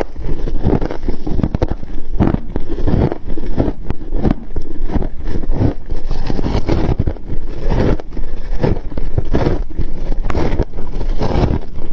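Freezer frost being bitten and chewed close to the microphone: a steady run of loud, crackling crunches, one after another.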